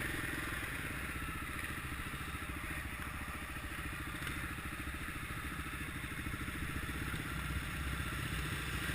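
Kawasaki KLX650R's single-cylinder four-stroke engine running steadily, its firing pulses even, with a little light clatter.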